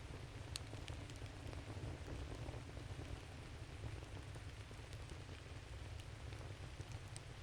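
Wood campfire crackling: scattered sharp snaps and pops of burning wood over a steady low rumble and hiss.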